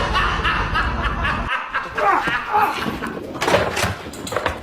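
People's voices laughing and chattering, over a low rumble that cuts off about one and a half seconds in.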